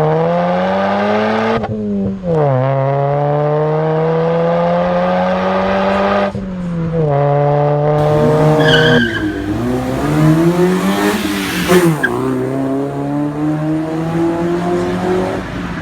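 Car engine with a modified intake and exhaust, accelerating through the gears. The note climbs slowly and drops sharply at shifts about two and six seconds in. A wavering high squeal and more rises and falls of engine pitch come through the middle.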